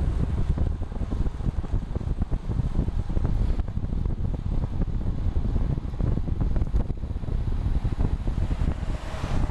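Wind buffeting the microphone of a moving bicycle, a gusty low rumble that flutters unevenly.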